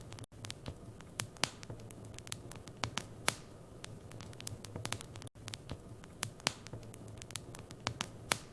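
Wood fire burning in a fireplace, crackling with many irregular sharp pops and snaps over a faint hiss, with a steady low hum underneath. The sound cuts out for an instant twice, about a third of a second in and about five seconds in.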